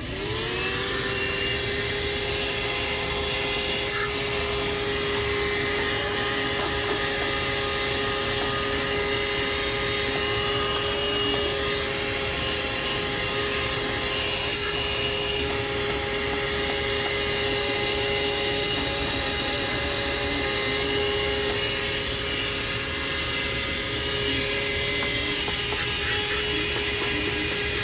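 Handheld 12 V car vacuum cleaner with a 120 W motor, switched on and spinning up in the first half second, then running with a steady whine over a rush of air.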